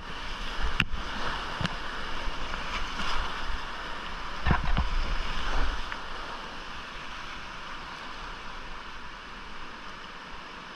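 Whitewater rushing in a small creek, with a few sharp knocks near the start and about four and a half seconds in, and some wind rumble on the microphone. The rush grows quieter after about six seconds.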